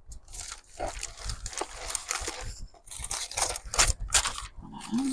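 Sheets of paper rustling and crinkling as they are handled and shuffled, in irregular bursts. Near the end a short steady hum rises and then holds for about a second.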